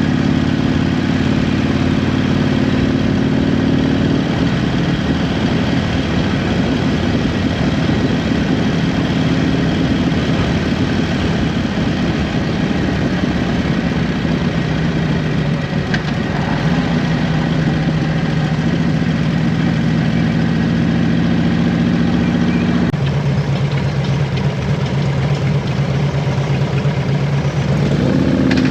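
Motorcycle engine running under way, a steady drone whose pitch steps to a new level a few times as the rider changes speed or gear, over a haze of wind and road noise.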